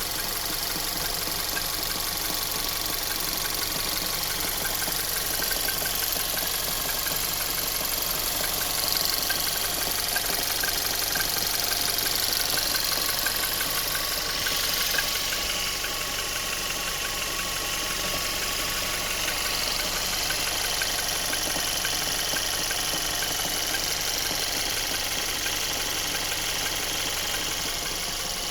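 Volkswagen Tiguan 1.4 TSI turbocharged petrol four-cylinder (150 hp) running steadily, with a fast, even ticking over its hum: the extraneous noise the owner can't account for.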